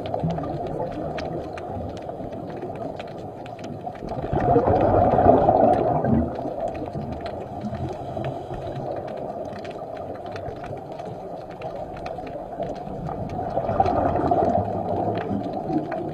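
Muffled, low water noise that swells louder twice, with scattered small clicks and crackles.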